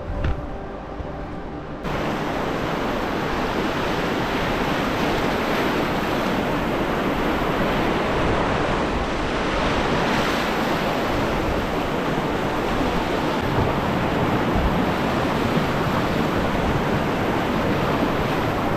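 Steady, loud rush of whitewater rapids. It starts suddenly about two seconds in, after a quieter stretch with a few steady tones.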